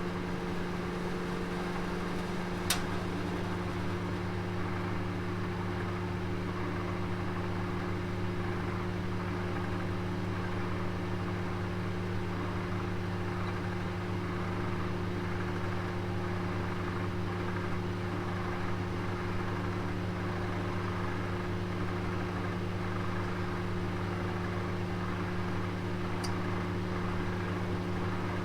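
Electric oven running with a roast inside: a steady hum over an even hiss, with one sharp tick about three seconds in.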